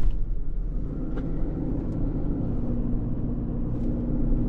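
Motor vehicle running steadily on the move: a low rumble with a steady engine hum.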